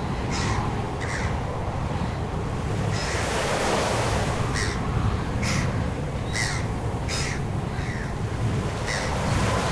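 Short, harsh bird calls repeated about eight times at uneven intervals, over a steady rushing noise that swells briefly in the middle.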